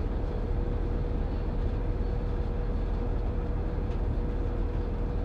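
A train running, with a steady low rumble and noise and one constant humming tone throughout.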